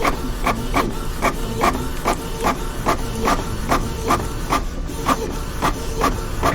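Office printer running, its mechanism clicking in a steady rhythm of about two to three strokes a second, over a steady low hum.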